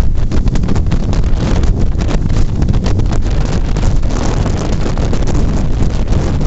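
Strong typhoon wind buffeting the microphone: a loud, gusty rumble with constant irregular thumps.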